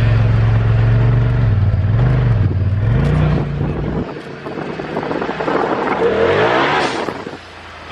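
Turbocharged side-by-side engine running steadily, with a couple of quick rev blips. After about four seconds it pulls away: the engine note climbs under acceleration as a rushing noise builds, strongest near the end.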